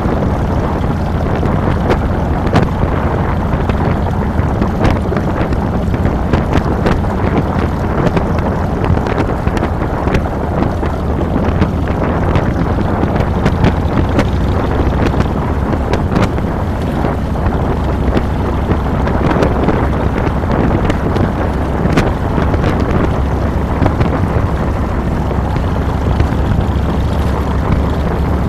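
Harley-Davidson Fat Boy's air-cooled V-twin running steadily while riding, with wind noise on the handlebar-mounted microphone.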